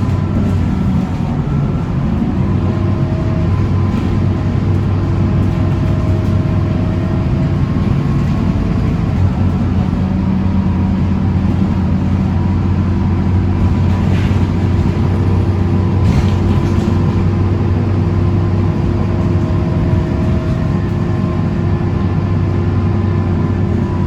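Scania K230UB single-deck bus's nine-litre five-cylinder diesel engine running at a steady, unchanging pitch. A few faint ticks come about two-thirds of the way in.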